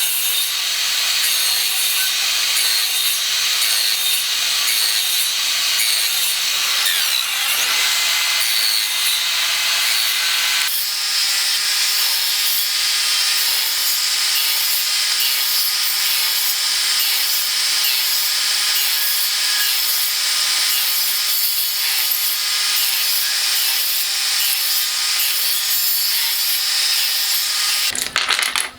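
Wood being worked by a tool, a saw or sander, giving a steady, mostly high-pitched noise that shifts in tone about eleven seconds in and stops suddenly near the end.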